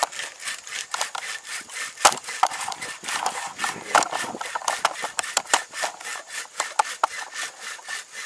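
A hand saw cutting through a tree's wood in back-and-forth strokes, about three strokes a second.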